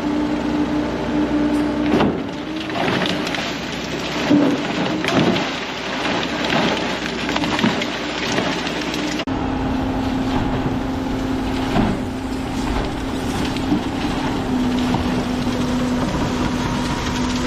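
Industrial scrap-metal shredder tearing up a truck: a steady machine drone under a dense crackle of crunching, snapping metal. The crackle is heaviest in the first half and thins out after an abrupt change about nine seconds in.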